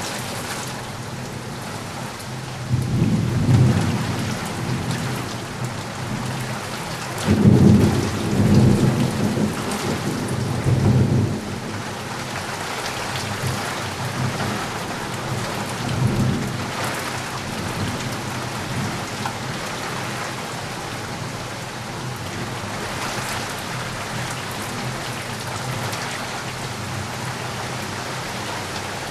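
Steady heavy rain falling. Low rolls of thunder rumble up twice in the first half, the second one longer, and a fainter rumble follows near the middle.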